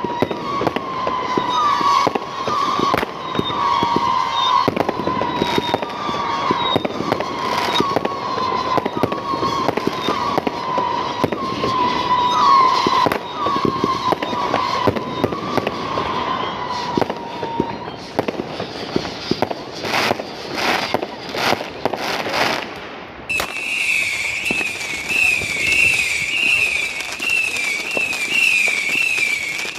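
Fireworks going off: a dense run of bangs and crackling. Under them a steady, wavering whistle-like tone, which jumps to a higher pitch about two-thirds of the way through.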